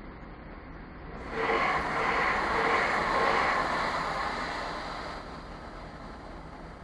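Regional train passing over the level crossing: its rolling noise starts suddenly about a second in and dies away over the next few seconds.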